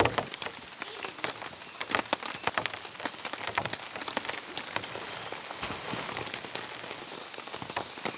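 Steady rain falling, with many sharp, individual drops landing close by.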